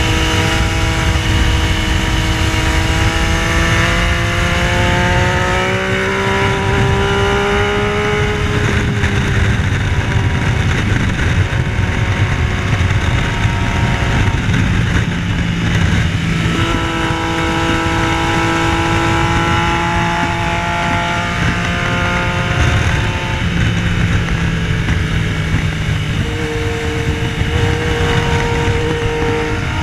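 Yamaha Tracer 900's three-cylinder engine running hard at track pace, its pitch climbing through the first nine seconds, held high again in the middle, then dropping lower near the end, over heavy wind rush.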